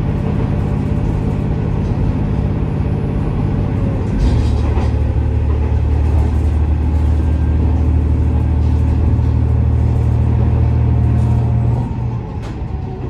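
KiHa 47 diesel railcar's underfloor engine heard from inside the car, with rail and running noise. About four seconds in the engine notches up to a louder, deeper note under power, then drops back near the end as the throttle is eased off.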